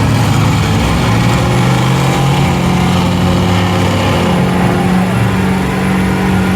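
A large truck engine running at a steady speed, with a low, even drone. Its pitch shifts slightly about four seconds in.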